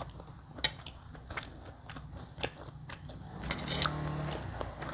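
Close-up chewing and mouth sounds of a person eating rice with goat-meat soup, with a sharp click about half a second in. Near the end a metal spoon scoops and scrapes in the ceramic bowl.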